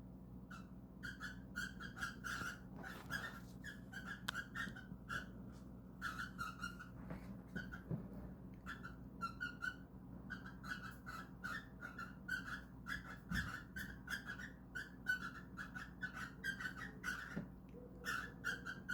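Cockatiels chirping in runs of short, repeated calls, a few a second with brief pauses, during a mating attempt.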